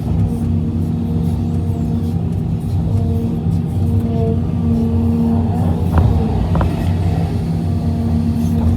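Heavy diesel engine running steadily, with two brief sharp clinks about six seconds in.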